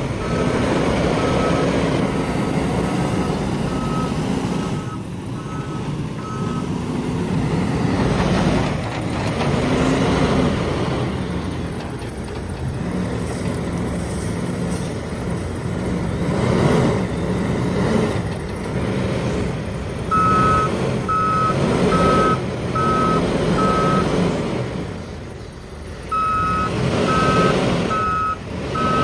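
Heavy diesel earthmoving machine working, its engine revving up and down, with a reversing alarm beeping a little more than once a second. The beeping runs for the first few seconds, stops, and comes back about two-thirds of the way through.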